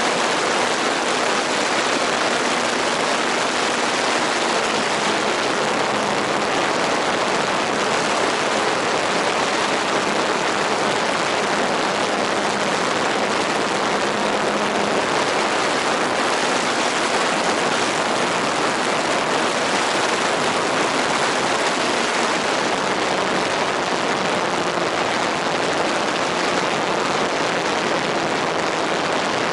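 A radio-controlled model airplane's engine running steadily under a loud, even rushing hiss, its faint tone drifting slightly in pitch.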